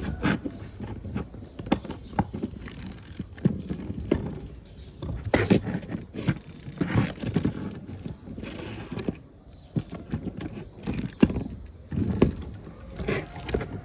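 Irregular clicks, knocks and scrapes of small hard objects being handled and set down, typical of diecast toy vehicles knocking together.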